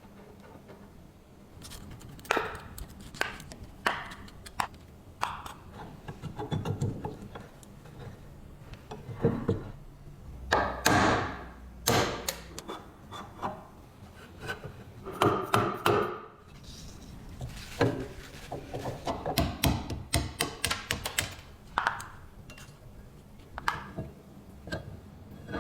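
Hand work on a rusty metal part: irregular knocks and taps, some in quick runs, with short scraping and rubbing noises in between.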